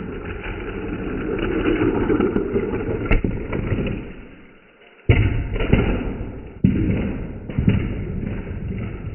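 Die-cast toy cars rolling down a plastic track with a rising rumble and a sharp click about three seconds in, then fading out. Just after five seconds a sudden loud clatter starts, with several hard knocks of cars striking and tumbling.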